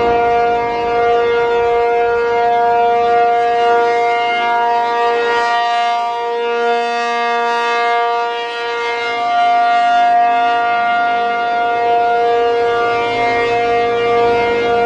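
P-50 outdoor warning siren sounding a steady two-tone chord, loud, its level swelling and fading over several seconds as the rotating horn sweeps around. In the cold, the fiberglass horn flexes and vibrates under the sound pressure, giving the tone a purr.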